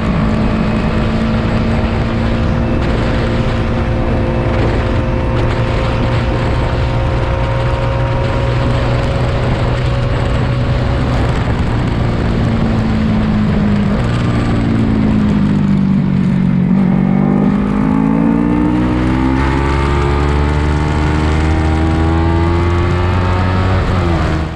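A lightweight 300-class race motorcycle's engine runs at high revs with a steady rush of noise. A little past halfway it drops in pitch, as when braking and downshifting for a corner, then climbs steadily again as the bike accelerates out. The sound fades away at the very end.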